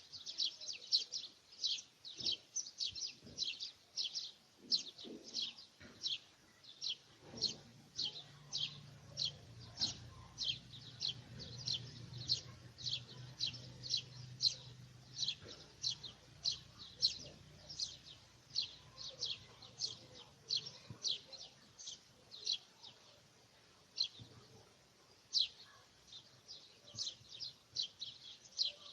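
A bird chirping over and over in quick short notes, about two or three a second, with a faint low hum in the background midway through.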